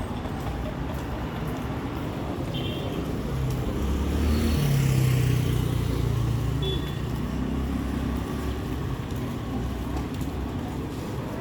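Street traffic noise, with a motor vehicle's engine passing close and loudest about four to six seconds in. Two brief high-pitched tones sound, one early and one about two-thirds of the way through.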